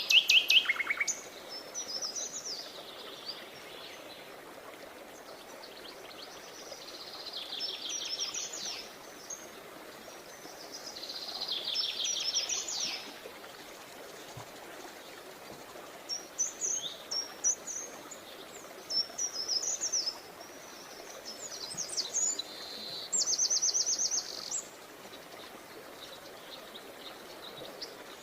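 Songbirds singing: high, fast trilled phrases recur every few seconds, with scattered single chirps between them, over a faint steady background hiss.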